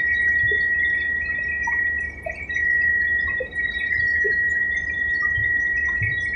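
Helicopter in flight heard from the cabin: a steady, loud high-pitched whine, with a fainter higher tone above it, over a continuous low rumble.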